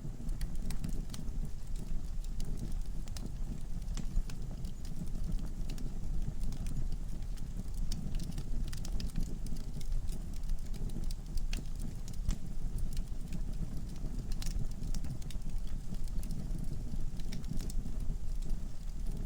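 Wood logs burning in a fireplace: a steady low rumble of the flames with frequent, irregular sharp crackles and pops from the burning wood.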